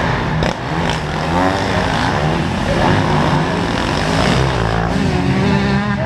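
Motocross bike engines revving on the track, their pitch rising and falling as they accelerate and shift.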